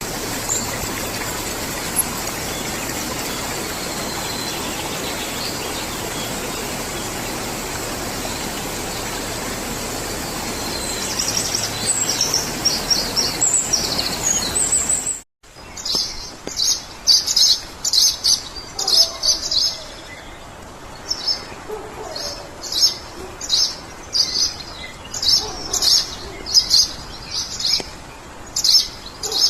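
Songbirds chirping in the wild. For the first half an even rushing noise with a thin, steady high tone runs underneath, and chirps come in toward its end. After an abrupt cut, a bird repeats short, high chirps about once or twice a second over a quieter background.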